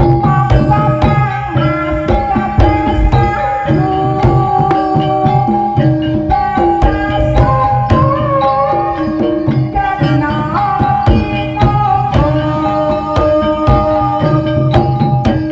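Live ebeg (jaran kepang) accompaniment music from Banyumas: quick kendang hand-drum strokes drive a busy rhythm under held melodic notes.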